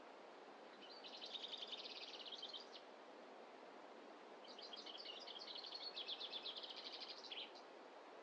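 A songbird singing two rapid, high trills, one about a second in and a longer one from about halfway, over a faint steady background hiss of the forest.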